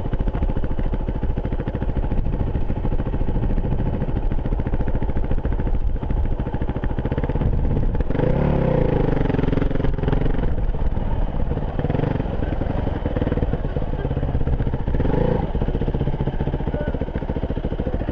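Enduro motorcycle engine running continuously under way, a Yamaha WR250F single-cylinder four-stroke.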